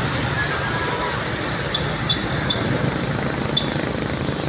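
Truck engine running steadily, a low rumble under a wash of noise, with a few short high chirps.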